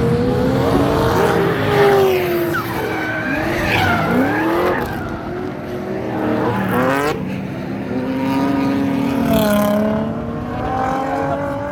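Drift cars on track, their engines revving up and down hard as they throw the cars sideways, with tyres screeching under the slide. The engine pitch dips and climbs several times and sweeps sharply upward about seven seconds in.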